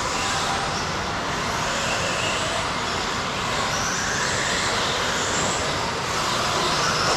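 Several electric RC stadium trucks racing on a track, their motors whining up and down in pitch as they accelerate and brake, over a steady noise of tyres and track.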